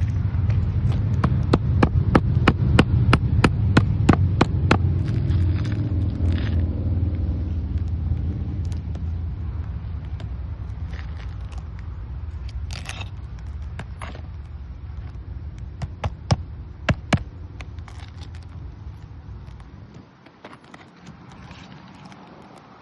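Brittle asphalt shingles being worked on a roof: a quick run of sharp cracks and scrapes in the first five seconds, then scattered ones. Under them a low rumble fades away and stops about 20 seconds in.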